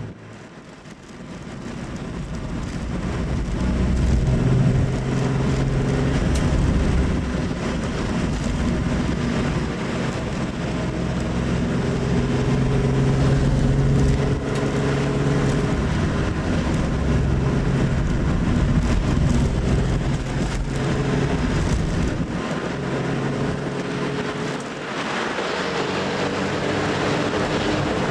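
Old Nissan Skyline (Kenmeri) engine and exhaust under way. It pulls up from a quiet moment over the first few seconds, then runs steadily at cruise. About three seconds before the end the sound turns brighter as the car enters a road tunnel.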